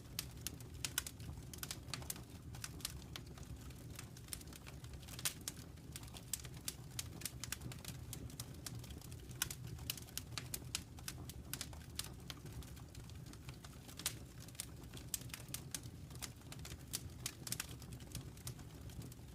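Fire crackling, with irregular sharp pops and snaps of varying strength, several a second, over a steady low rumble.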